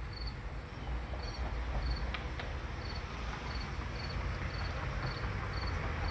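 Crickets chirping in a steady rhythm, short high trilled chirps about two a second, over a low steady hum.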